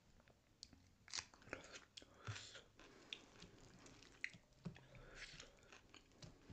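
Quiet chewing and wet mouth clicks of someone eating dhido with sisnu, with a few louder smacking bites about one, two and five seconds in.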